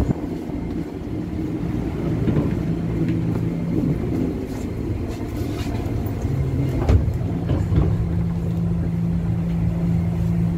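Inside an electric commuter train car: a steady low hum from the train's electrical equipment, with a sharp knock at the outset and a few more knocks and clatter later.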